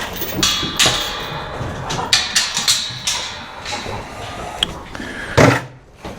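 A run of irregular knocks and clatters, the loudest about five and a half seconds in.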